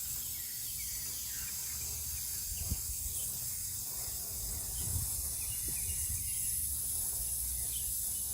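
Aerosol foaming evaporator coil cleaner hissing steadily as it is sprayed through an extension straw into the evaporator case, filling the evaporator coil with foam.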